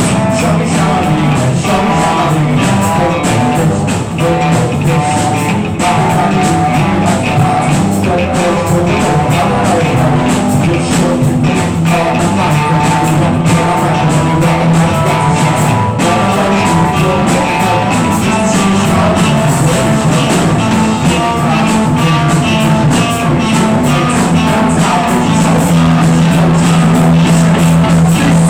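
Rock band playing loud, with electric guitar and drum kit, a steady beat and sustained chords.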